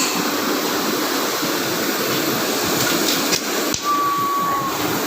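CNC cutting machine running with a steady noise. Just before 4 s there is a sharp click, followed by a short, steady beep lasting under a second.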